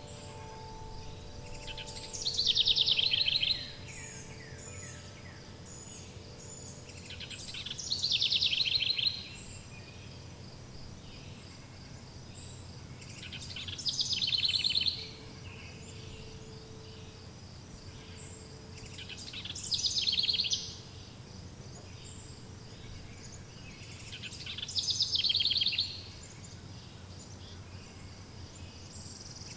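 A songbird repeating the same short song about every five to six seconds, each one a fast descending trill lasting about a second and a half, over a low steady background hum. Ringing chime tones fade out in the first few seconds.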